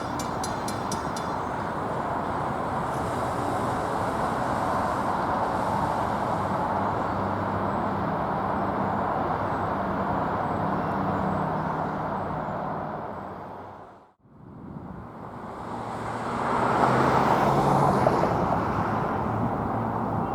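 A diesel-hauled train running by, with steady rolling noise and a low engine hum. About fourteen seconds in, the sound fades out almost completely, then fades back in and grows louder.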